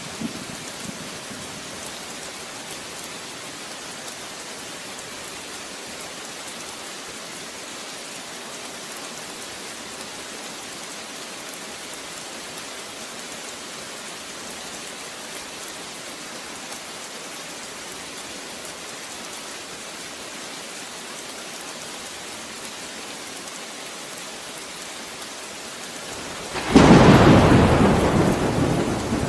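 Steady rain falling with an even hiss. Near the end a sudden loud clap of thunder breaks in and rumbles on, slowly fading.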